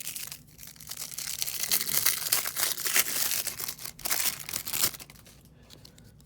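A trading card pack wrapper crinkling and tearing as it is ripped open, a dense crackle lasting about four seconds that then fades to quiet handling.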